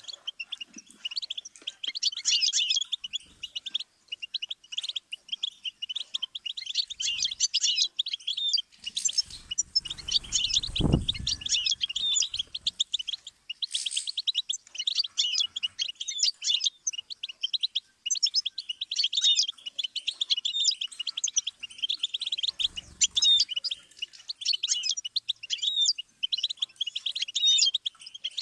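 Goldfinch singing a long, continuous song of rapid twittering trills and chirps, high-pitched and almost unbroken. A brief low hum sits under it about ten seconds in.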